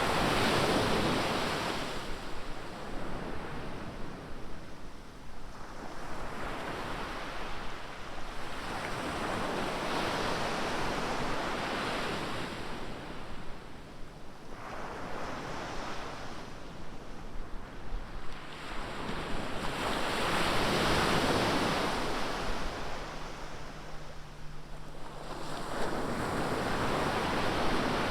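Ocean surf: waves breaking and washing up the beach in repeated surges that swell and fade every few seconds, with some wind noise on the microphone.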